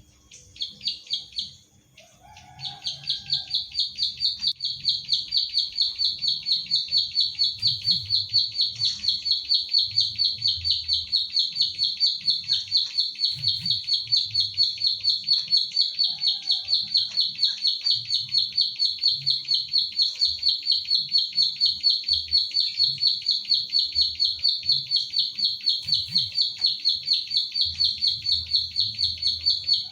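Ciblek sawah (klik-klik bird, a field prinia) singing its rapid, evenly repeated 'klik klik' notes, about four a second, in one long unbroken run after a short break near the start.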